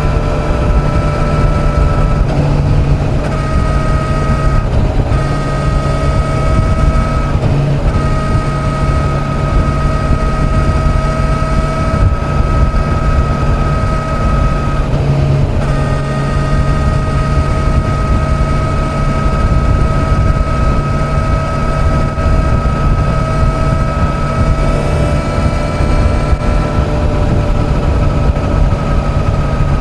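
Kawasaki Z900's inline-four engine running at a steady highway cruise under heavy wind rush on the microphone. Its note holds level and dips briefly three times.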